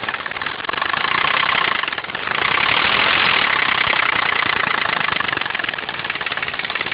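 Alfa Romeo 164 engine running with a fast, steady knocking, the knock the owner takes for a piston rod knock. It is revved twice, and a whistling sound comes up with each rev.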